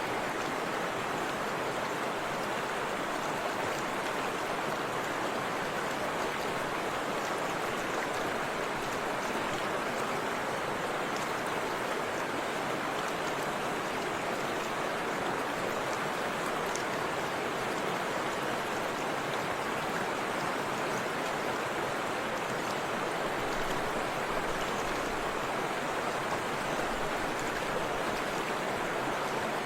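Forest river and small waterfall flowing: a steady, even rush of water.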